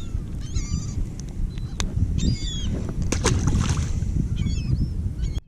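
A flock of seabirds feeding over baitfish, calling in repeated bursts of short, high, chattering cries, over a steady low rumble of wind and water. A few sharp clicks sound around the middle.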